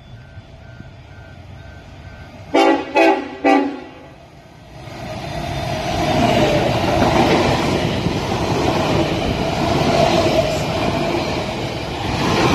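Tilt Train sounding three short horn toots as it approaches, then running through the station at speed, the passing train growing loud about two seconds later and staying loud.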